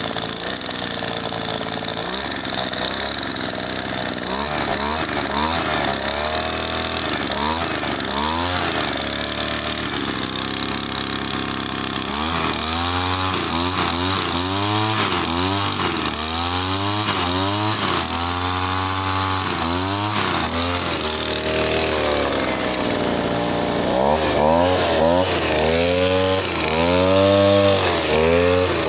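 Small two-stroke motorcycle-type engine revved over and over, its pitch climbing and falling with each blip of the throttle. It runs steadier for the first few seconds, then the revs come in quick repeated blips, with a short lull before a last run of bigger revs near the end.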